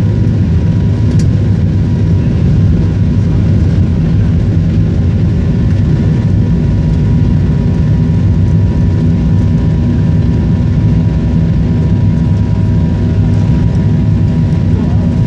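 Airplane engines during takeoff: a steady, loud, deep rumble with a few faint steady whining tones above it, unchanging throughout.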